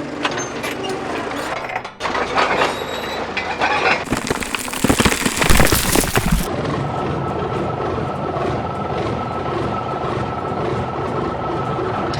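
Cartoon vehicle sound effects in abruptly cut segments: mechanical clatter, then a loud rushing noise with a deep rumble about four seconds in, then a steady engine hum with a thin high whine from about six and a half seconds on.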